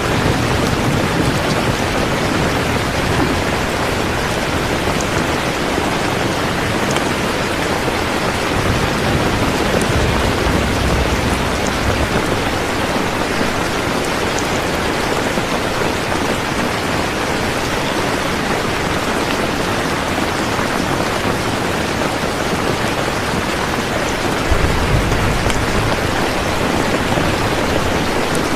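Steady, dense rainfall with scattered drop ticks. A low rumble swells up twice, about ten seconds in and again near the end.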